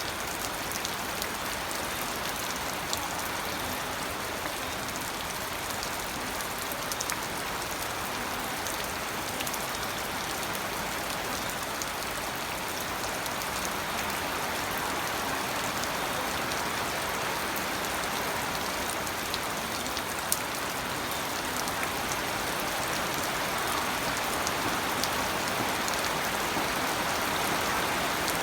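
Steady rain falling on a surface, an even patter with scattered individual drop taps, growing slightly louder toward the end.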